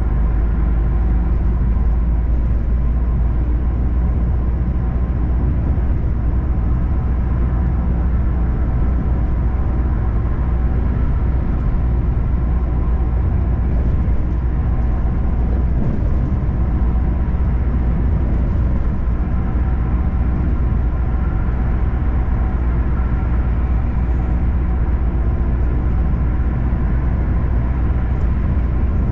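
Steady low rumble of a semi truck's diesel engine, heard from inside the cab.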